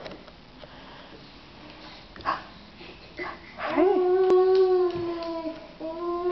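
Dog howling: two short rising yelps, then a long, slightly wavering howl, and a second howl starting near the end.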